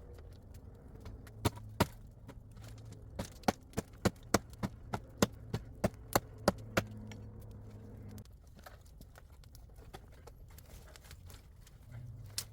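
Wood being chopped: two sharp blows, then a quick run of about a dozen more at roughly three a second, stopping about two-thirds of the way through.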